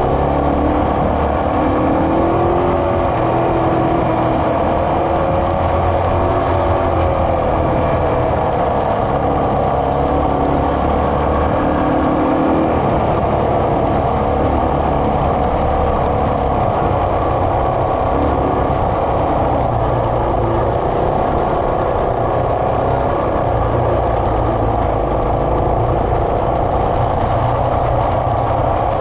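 Motorcycle engine running at riding speed, its pitch rising and falling with the throttle for the first dozen seconds, then holding steadier.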